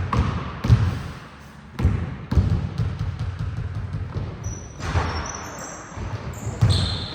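Basketball bouncing on a gym floor during play, a run of sharp thuds at uneven spacing.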